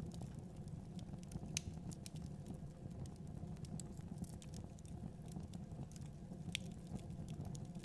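Wood fire burning in a fireplace: a steady low rumble of flames with irregular crackles and a few sharper pops of the burning logs.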